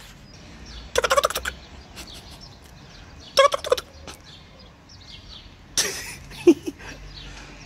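Birds calling: short, rapid chattering calls in three bursts, about a second in, around the middle and again near the end, over steady outdoor background noise.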